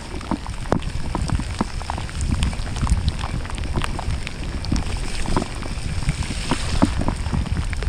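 Rain striking a helmet- or bike-mounted action camera during a mountain-bike ride: many irregular sharp ticks of drops hitting the housing over a steady low rumble of wind and riding.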